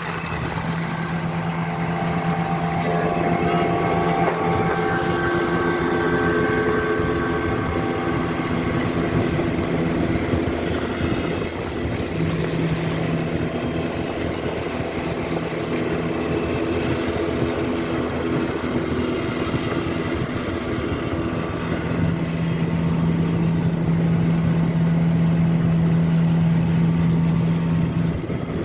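Small boat's engine running steadily at an even pitch, with no real revving up or down.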